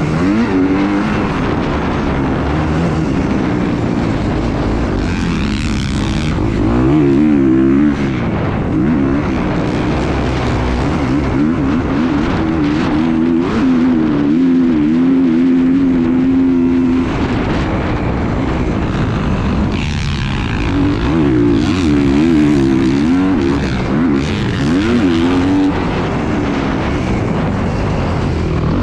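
A small engine running continuously, its pitch wavering up and down as the revs change, over a steady rushing noise.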